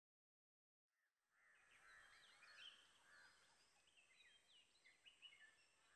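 Faint birdsong: many short, high chirps, starting about a second in after silence.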